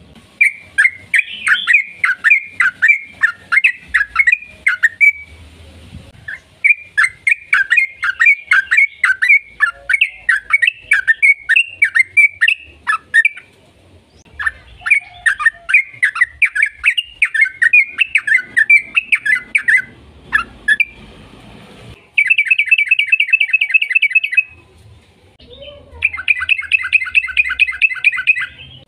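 Yellow-vented bulbul (trucukan) singing in long runs of quick, loud chirping notes, with short breaks between runs. Near the end come two fast, even trills, each about two and a half seconds long.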